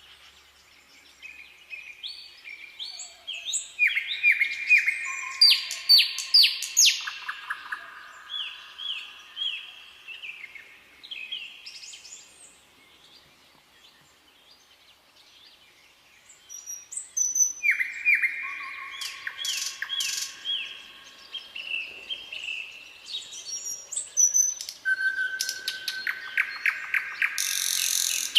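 Songbirds singing in a forest: repeated phrases of quick chirps and trills, in two busy spells with a quieter lull in the middle.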